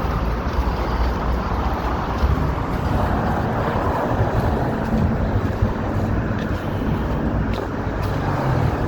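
Street traffic: cars and other vehicles driving past with a steady rumble of engines and tyres.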